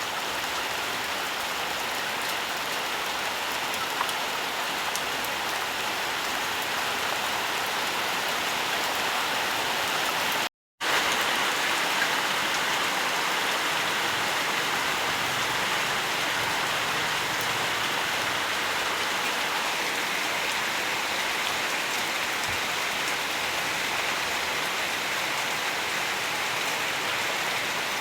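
Steady, dense rainfall hiss with no distinct drops standing out. It cuts out completely for a split second about ten seconds in, then resumes unchanged.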